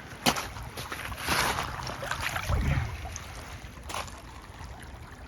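Shallow creek water sloshing and splashing, with a couple of sharp clicks of stones knocking and a dull thud, as someone reaches into the creek bed.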